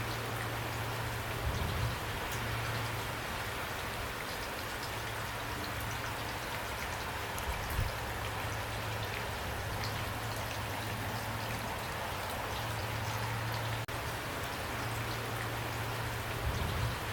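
Steady rain falling, with individual drops ticking on a surface and a low steady hum underneath.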